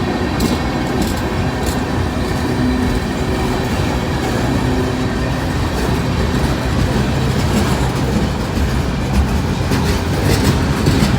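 Freight train cars rolling past, their steel wheels clicking over rail joints above a steady rumble, with a few clicks about a second in and again near the end.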